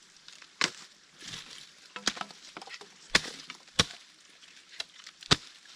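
Dry, brittle dead wood cracking in a series of sharp, separate snaps as it is cut and broken up for fire starter, the loudest crack a little past five seconds in.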